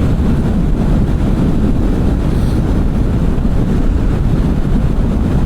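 Steady low rumble of wind buffeting the microphone on a moving Kawasaki Vulcan 650 motorcycle, mixed with the bike's engine and road noise.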